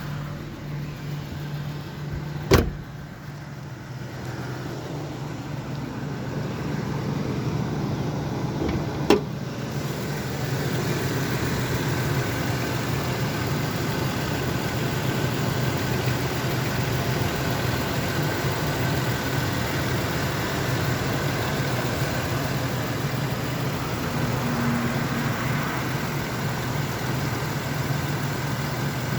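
Carbureted pickup truck engine idling steadily, with two sharp knocks about two and a half and nine seconds in; after the second knock the engine sounds louder and closer.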